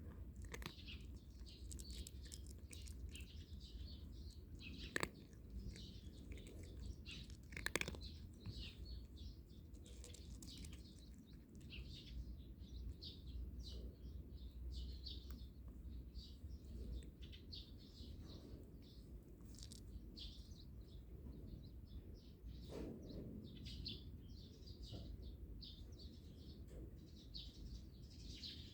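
Small songbirds chirping over and over, faint, with a couple of sharp clicks about five and eight seconds in.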